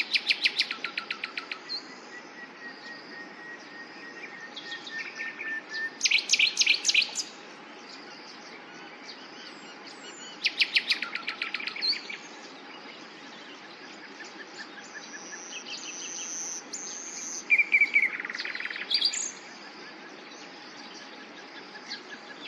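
Common nightingale singing: loud phrases of fast repeated notes about a second long, near the start and again about six, eleven and eighteen seconds in, with quieter whistles and trills between them.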